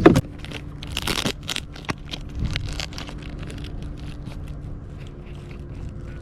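Close handling noises of rustling, crinkling and scraping with scattered clicks, and a louder rustle about a second in, as gear and the catch are handled on the kayak. A faint steady hum runs underneath.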